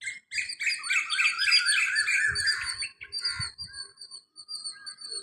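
A robin singing a quick run of warbling notes that rise and fall for about three seconds, then breaking into softer, scattered chirps. A few low thumps come in the middle.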